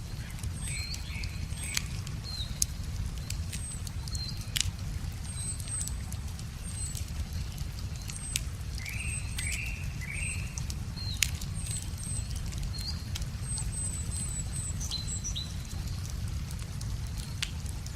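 Wood fire crackling with scattered sharp pops, over a steady low rush of running river water, while birds chirp with many short high calls and a run of three rising notes about halfway through.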